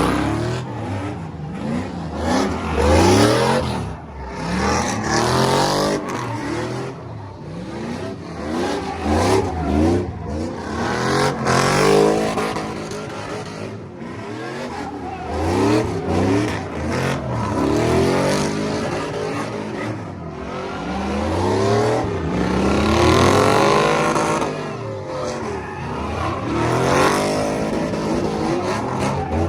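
Truck engines revving over and over, their pitch rising and falling every couple of seconds.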